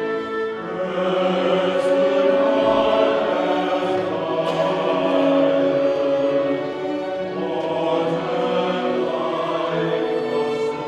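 Choir singing sustained, held notes with orchestral accompaniment, the voices swelling in about a second in and again later.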